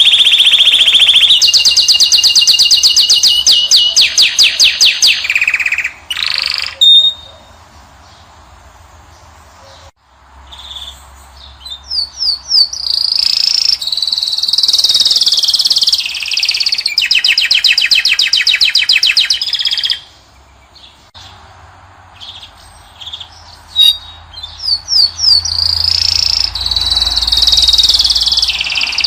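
A caged finch sings in long phrases of fast, even trills and bright whistled notes. It breaks off twice for a few seconds before starting again.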